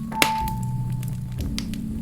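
Wood fire crackling in a fireplace, with one sharp pop about a quarter second in among smaller ticks. Soft sustained background music plays underneath.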